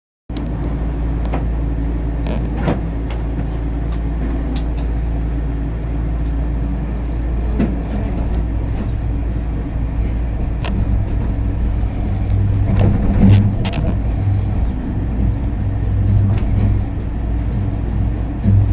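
Steady low rumble of a running vehicle, with scattered sharp clicks and a low hum that grows louder from about twelve seconds in.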